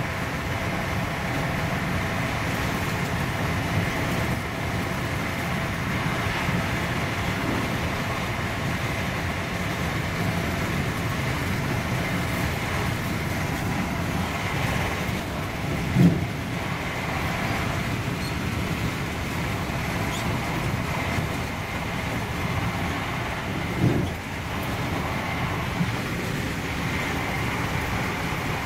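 Steady running noise inside a Mark 3 passenger coach of a High Speed Train, wheels rumbling on the rails. Two short knocks sound about eight seconds apart in the second half.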